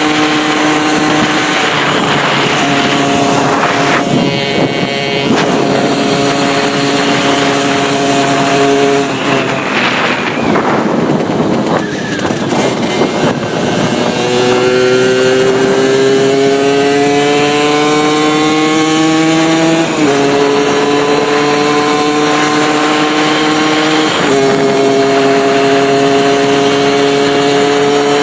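Suzuki SMX's RG80 two-stroke single-cylinder engine, breathing through a free intake and a TK70 exhaust, heard onboard while riding. It holds fairly steady revs with abrupt pitch changes at gear shifts. Around the middle the note drops away under rushing noise for a few seconds, then climbs steadily and falls again at a shift.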